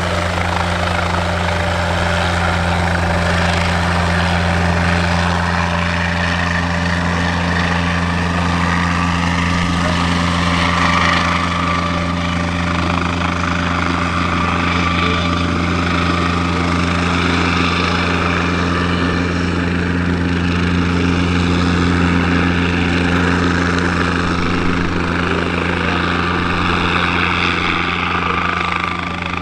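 Guimbal Cabri G2 helicopter running steadily, its rotor turning and its Lycoming O-360 piston engine giving a constant low hum.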